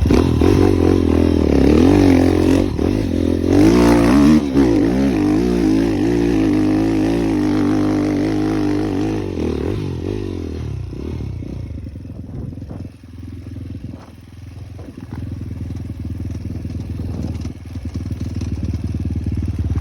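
Avantis enduro motorcycle engine revving, its pitch rising and falling. About ten seconds in it fades away, then a quieter engine sound grows again near the end.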